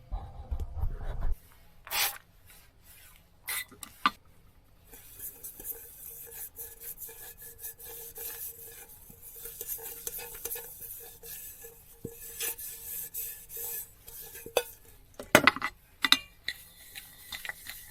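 Dishes and utensils being handled: rubbing and scraping with scattered clinks and knocks, turning into a busier stretch of rubbing about five seconds in, with a few louder knocks near the end.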